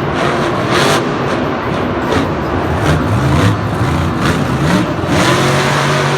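An engine revving, its pitch rising and falling several times, over a steady rushing noise.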